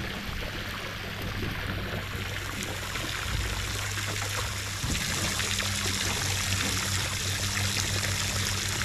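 Heavy rain pouring steadily, a continuous hiss of falling water, with a steady low hum underneath that grows stronger about halfway through.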